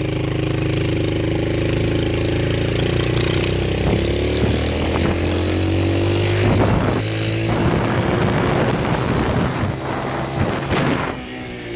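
Small motorbike engine running as it is ridden, its pitch rising and falling with the throttle.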